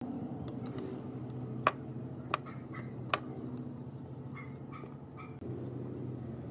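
A machine running with a steady hum, with three sharp clicks or taps in the first half; the hum steps up slightly near the end.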